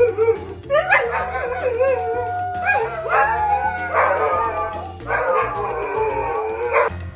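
A dog howling and whining in several long cries, each a second or two long, with the pitch wavering up and down. Background music plays underneath.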